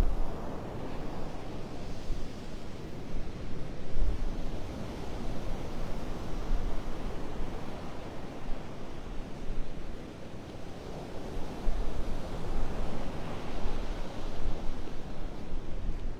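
Surf washing onto the beach, an even wash of noise, with wind buffeting the microphone in uneven low gusts.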